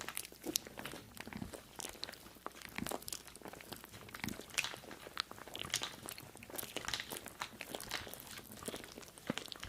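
Close-miked crisp crunching and crackling: many small, irregular crackles in quick succession.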